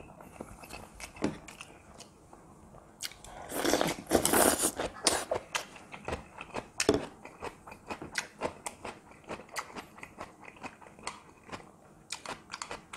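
Close-miked chewing and crunching of crisp cucumber kimchi, with many small sharp clicks of the mouth and teeth. A louder rush of noise comes about three to five seconds in.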